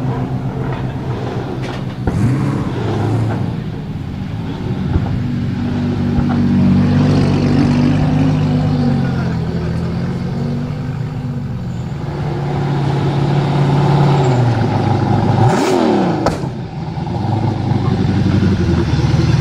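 Drift car engine revving and running hard, its pitch repeatedly climbing and dropping, with a quick sharp rise and fall near the end.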